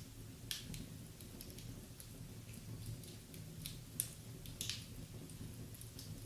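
Wood fire crackling in a fireplace: irregular sharp pops and snaps over a low steady rumble, with the sharpest pop about four seconds in.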